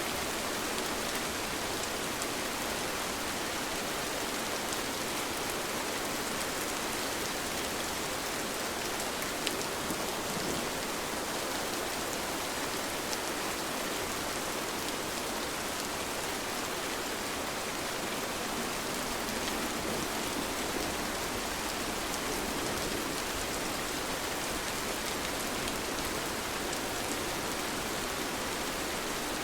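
Steady, gentle rain falling, an even hiss of many drops with no thunder.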